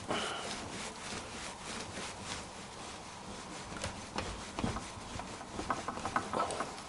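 Quiet rubbing of wood with a few light knocks and clicks as a freshly turned wooden chess piece is worked free of the lathe, the knocks bunched in the second half.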